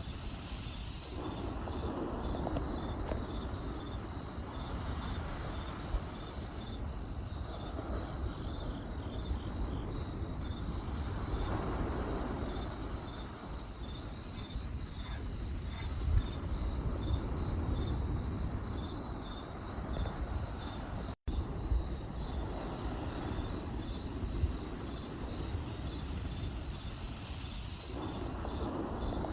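Crickets chirping in a steady, fast pulsing trill over a campfire's low rumble that swells and fades every few seconds, with a few sharp crackles and pops. The sound drops out for an instant about two-thirds of the way through.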